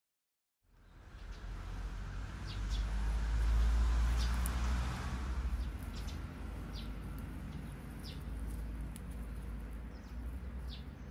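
Small birds chirping outdoors: short, high, falling chirps every second or so. They sit over a steady low rumble that swells a few seconds in. The sound fades in just after the start.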